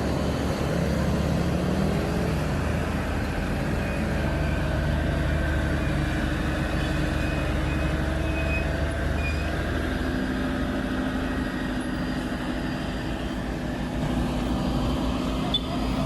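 Heavy truck engine running steadily, with road traffic noise.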